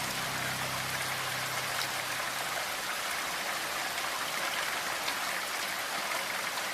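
Steady rain falling: an even hiss with scattered drop ticks. A low held music note fades out in the first two or three seconds.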